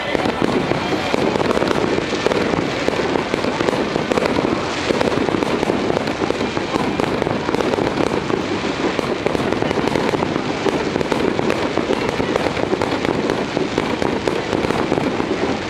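Fireworks display: aerial fireworks bursting in rapid succession, a dense, continuous run of pops and crackling with no single big boom standing out.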